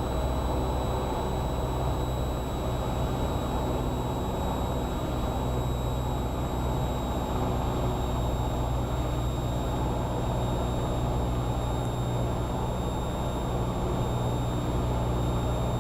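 Cessna 172R's four-cylinder Lycoming engine and propeller droning steadily in flight, with a thin steady high whine over the drone.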